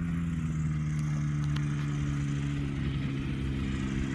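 A small propeller plane's piston engine running at low power as it taxis, a steady drone that shifts slightly in pitch near the end.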